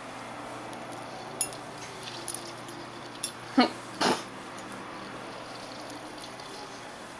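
A household pet gives two short calls about half a second apart, a little past the middle, over a low room hum with a few faint clicks.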